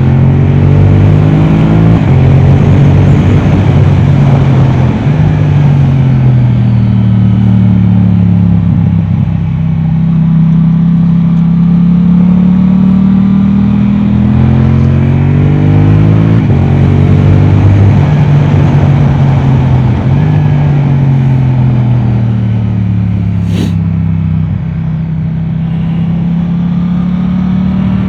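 Yamaha R7's parallel-twin engine through an Akrapovic exhaust, pulling hard with its pitch climbing in steps at each upshift, then falling away as the bike slows, and climbing again through the gears. A single sharp click sounds once, near the end.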